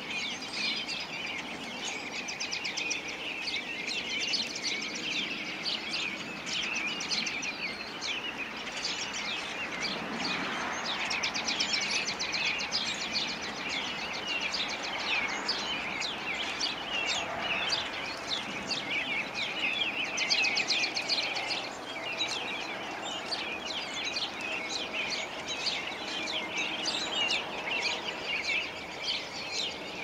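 Songbirds calling constantly, a dense chatter of many short, quick, overlapping chirps, over a steady background noise.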